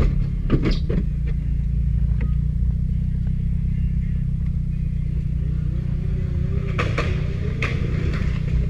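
Steady low rumble of a car engine running. A few short knocks come about half a second in and again near the end.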